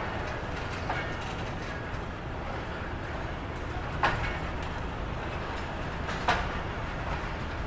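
Passenger train pulling out slowly, heard from the open doorway of a coach: a steady low rumble with sharp metallic clanks about a second, four and six seconds in.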